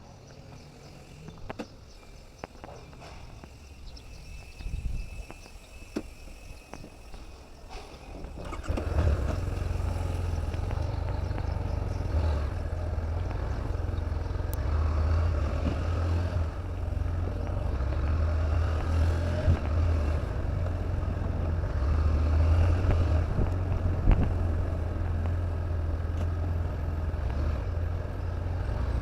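A motor vehicle's engine running with a steady low rumble that comes in about nine seconds in, after a quieter stretch with a few scattered clicks.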